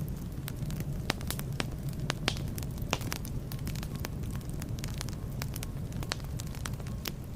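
Wood fire burning in a fireplace: a steady low rumble of the flames with sharp, irregular crackles and pops several times a second.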